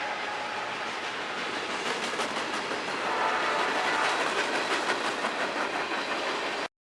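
Freight train cars rolling past, their steel wheels clacking over rail joints in a steady run of clicks. The sound cuts off suddenly near the end.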